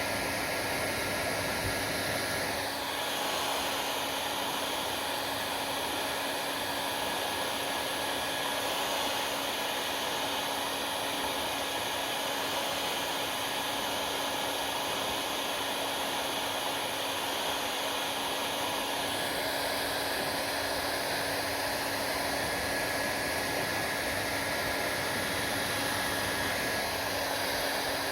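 Hair dryer running steadily: a constant rush of blown air with a faint steady hum under it. The character of the rush shifts slightly about three seconds in and again near twenty seconds.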